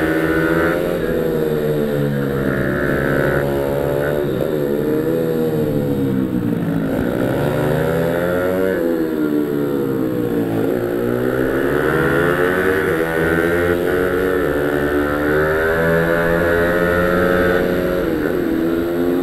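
Mini supermoto pit bikes running on a circuit, their engines revving up and dropping back over and over as they accelerate and brake through the corners.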